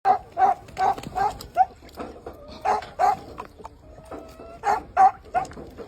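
A run of about a dozen short animal calls, each a brief pitched cry, coming in quick bunches with a pause in the middle.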